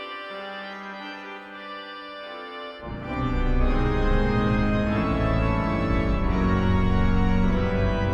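Organ music: soft held chords with slowly moving lines, then about three seconds in the full organ comes in with deep bass and plays much louder.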